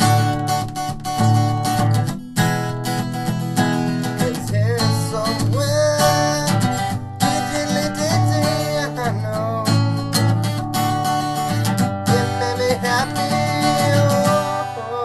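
Acoustic guitar strummed steadily in an upbeat song.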